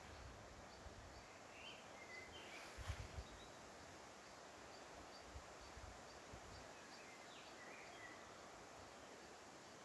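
Faint outdoor nature ambience: a high, regular insect-like chirp about two to three times a second over a soft hiss, with a few short bird chirps around two seconds and eight seconds in. A brief low thump about three seconds in is the loudest moment.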